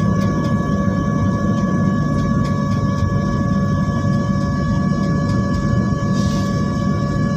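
Jet airliner cabin noise in flight: the engines' steady low rumble with a steady whine of several tones above it.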